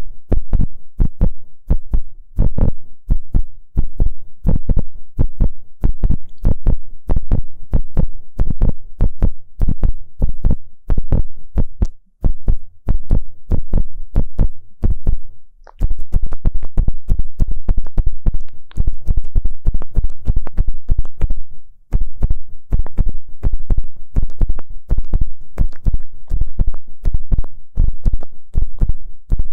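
Ear-pick tip scratching and rubbing inside an ear, close to the microphone. It makes a quick run of scratchy strokes with heavy low thumps, breaks off briefly about halfway through, then carries on denser.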